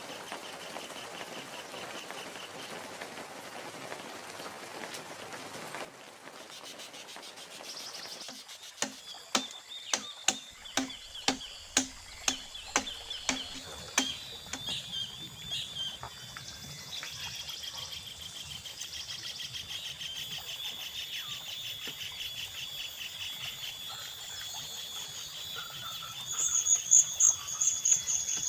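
A steady rushing noise that stops abruptly about six seconds in, then a run of about eleven sharp knocks, roughly two a second, each with a short low ring: a tool striking bamboo during shelter building. High insect buzzing and chirping carry on throughout, with a burst of loud high chirps near the end.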